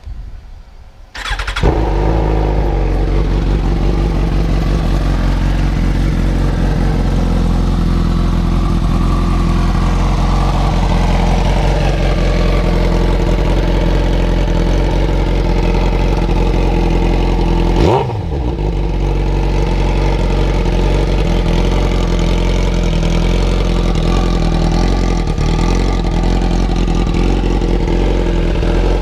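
2015 Suzuki GSX-R1000's inline-four sport-bike engine starting up about a second and a half in, then idling steadily and loud through a short aftermarket GP Shorty exhaust. Its note briefly dips and recovers about two-thirds of the way through.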